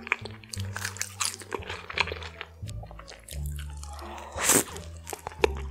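Close-miked chewing and biting of crinkle-cut fries smothered in melted cheese and sauce: wet, clicking mouth sounds, with one louder noisy bite about four and a half seconds in as a fry goes into the mouth. Steady background music plays underneath.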